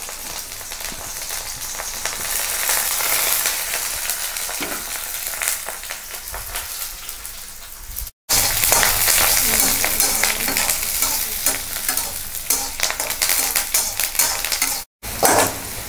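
Sliced onions and curry leaves sizzling and crackling in hot oil in an iron kadai, with a spatula stirring them near the end. The sizzle breaks off twice for a moment.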